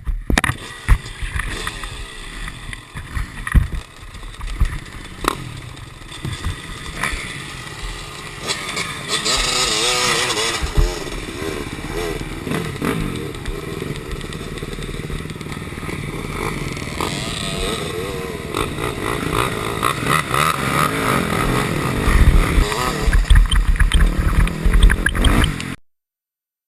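KTM 250 SX-F four-stroke single-cylinder motocross engine revving up and down while riding, with scattered knocks and clatter from the bike. The sound cuts off suddenly near the end.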